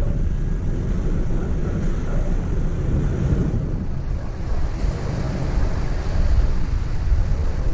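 Wind buffeting the microphone: a steady, fluttering rumble with a rushing hiss of open water behind it.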